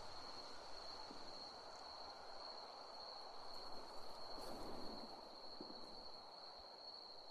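Insects trilling steadily on one unbroken high note, over a soft background hiss with a few faint ticks.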